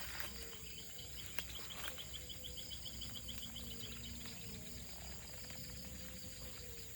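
Steady high-pitched insect chorus of crickets and cicadas, with a run of quick, evenly spaced chirps, about four or five a second, that stops about four seconds in.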